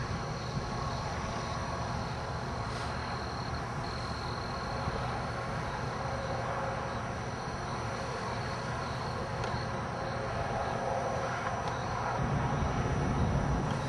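Steady vehicle rumble with a faint high whine over it; the rumble grows louder near the end.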